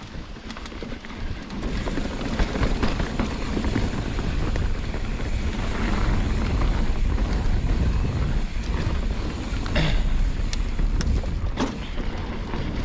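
Mountain bike ride heard from the rider's camera: wind buffeting the microphone and tyres rolling over the trail, building up over the first two seconds, with a few sharp clicks and knocks near the end.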